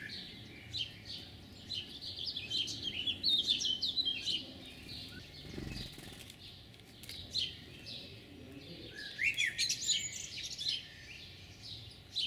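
Small songbirds chirping and singing, several short calls and trills overlapping, busiest about three seconds in and again near the end.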